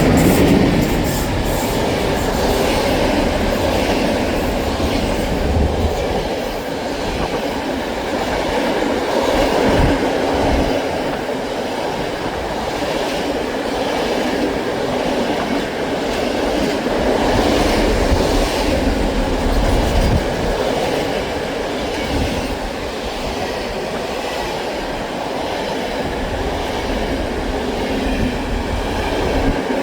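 A train running past on the line, its wheels on the rails making a steady noise with a regular clickety-clack.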